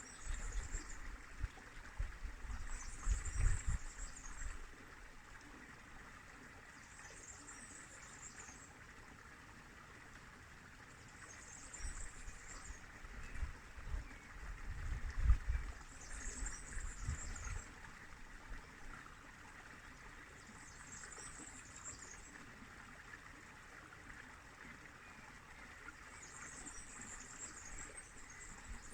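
River water running steadily, with a short high chirping call repeating about every four to five seconds and low rumbling bumps near the start and around the middle.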